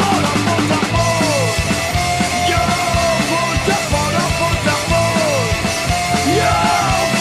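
Live punk rock band playing loud with a steady beat, without vocals, while a lead line slides up and down in pitch.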